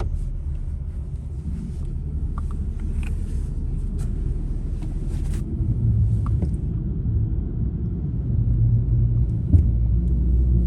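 Pickup truck driving, heard from inside the cab: a steady low rumble of engine and road noise, with a few faint clicks and a short knock near the end.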